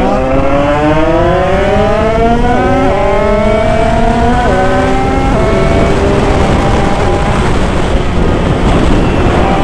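Two-stroke Derbi engine with an Italkit 80 cc kit, revving hard under full throttle. Its pitch climbs and drops three times in the first five or so seconds as it shifts up through the gears. Then it holds steadier and fainter under a strong wind rush.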